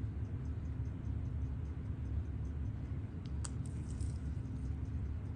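Faint, quick, even ticking of a mechanical watch movement, the Seiko 6138 automatic chronograph, over a low handling rumble. One sharper click comes about three and a half seconds in.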